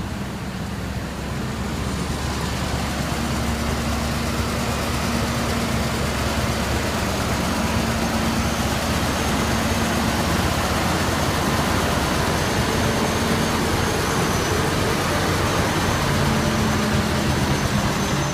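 Big delivery truck's engine running steadily, rising in level over the first couple of seconds and then holding.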